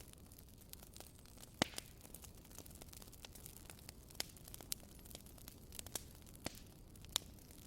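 Wood fire crackling: firewood burning with sharp, irregular pops over a faint steady hiss.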